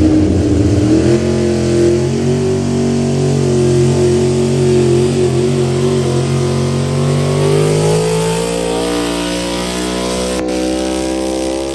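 Pulling vehicle's engine running hard at high revs, holding a steady pitch and then rising in pitch about eight seconds in, growing slightly fainter toward the end.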